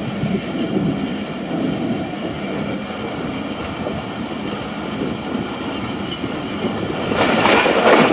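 Passenger coaches of an express train running on the rails with a steady rumble, turning to a louder rattle of wheel clicks about seven seconds in.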